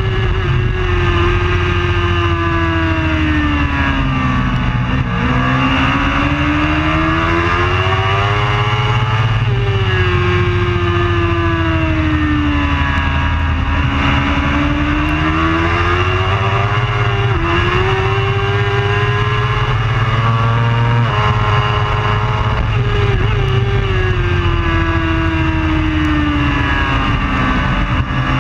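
Superbike engine running hard on track, its pitch climbing under acceleration and sinking on deceleration in long sweeps, with abrupt steps as gears are changed. A steady low rush lies underneath.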